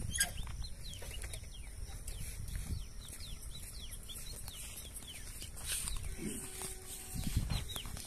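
Small birds chirping: short, high, falling chirps repeating several times a second over a low rumble, with a few lower calls near the end.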